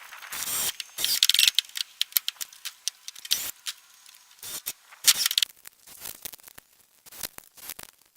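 Irregular sharp clicks and light rattles, with a few short scraping rustles, from hands handling boards and hardware during carpentry work.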